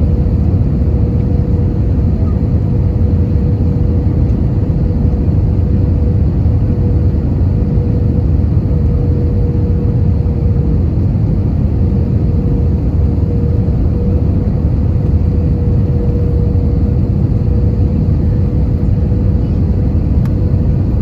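Airbus A320-200 cabin noise: a steady engine and airflow rumble with a constant hum near 500 Hz, unchanging throughout.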